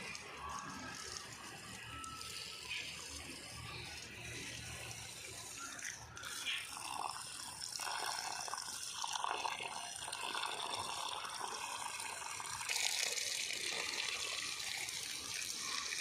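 Water running and splashing as plants are watered. It grows louder about eight seconds in and turns into a brighter hiss from about thirteen seconds.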